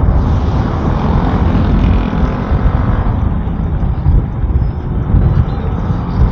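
Wind buffeting the microphone over road and engine noise while riding a Honda ADV150 scooter, a steady rushing rumble with a brief rise in hiss during the first half.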